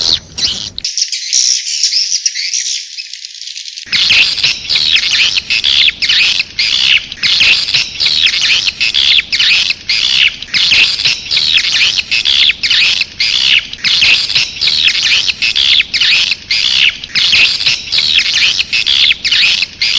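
Edible-nest swiftlet calls: a loud, dense stream of rapid high-pitched twittering chirps, several a second. This is a swiftlet lure call, of the kind played to draw swiftlets into a nesting house. Near the start the low end drops out for a few seconds, leaving only the thin, high chirping.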